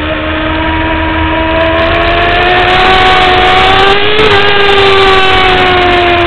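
Sport-bike inline-four engine, a 2009 Kawasaki ZX-6R, running hard at high revs on track. Its pitch climbs slowly, changes briefly about four seconds in, then holds steady, with wind rush underneath.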